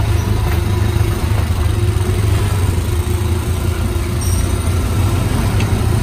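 Small engine of an Autopia ride car running steadily as the car drives along the track, a loud, even low hum.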